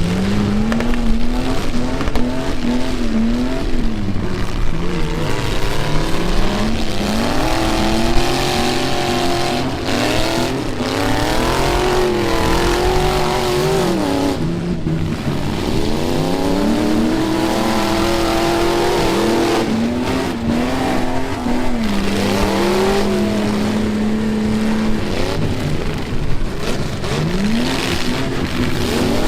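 Demolition derby pickup truck engines revving up and down hard, several at once, their pitches rising and falling over one another. A few sudden bangs of collisions stand out above the engines.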